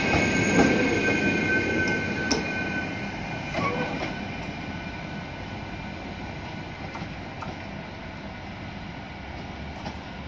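Alstom Coradia passenger train pulling out and going away: rolling wheels on the rails, with a thin high squeal in the first few seconds and a couple of sharp knocks. The sound fades steadily as the train draws off.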